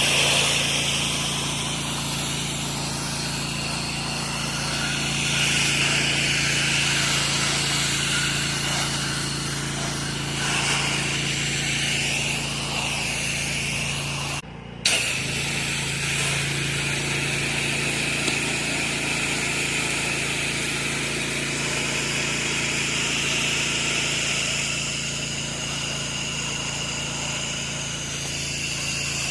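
An 8 GPM pressure washer running steadily, with the hiss of spray from the wand over the engine's hum. The sound drops out briefly about halfway through.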